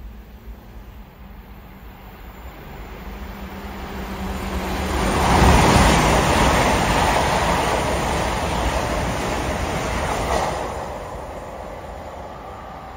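GWR passenger train passing at speed through the station: a rushing rumble of wheels on rail that builds as it approaches and is loudest for about five seconds as the coaches go by, then fades away.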